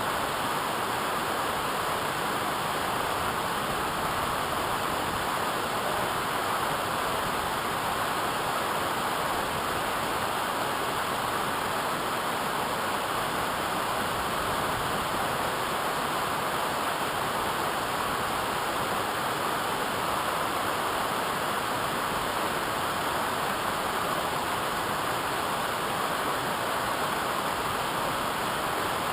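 Waterfall: steady rushing water.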